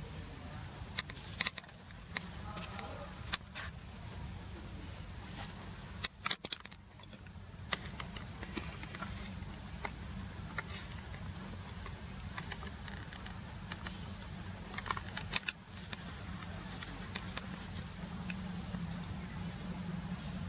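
A steady, high insect chorus over a low rumble, broken by scattered sharp clicks and knocks. The clicks and knocks cluster about 6 seconds in and again about 15 seconds in.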